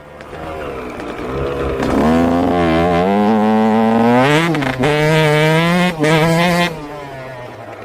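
Yamaha YZ125 single-cylinder two-stroke engine revved up from a low idle, held high with a wavering pitch and two brief dips, then dropping back to idle near the end.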